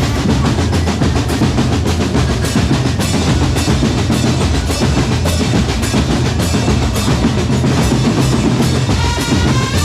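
Drum corps percussion playing a fast, steady rhythm: bass drums hitting under rapid snare strokes and rolls.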